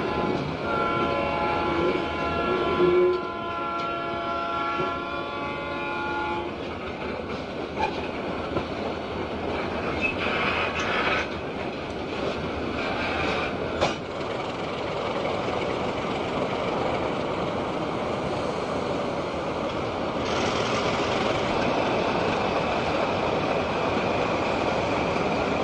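Diesel locomotive air horn sounding a multi-note chord for about six seconds. The rumble of a moving train follows, with a few sharp clanks partway through, growing a little louder near the end.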